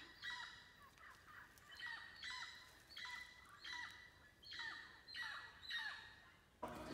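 Faint birdsong: a repeated call of short downward-sliding notes, coming again every half second to a second.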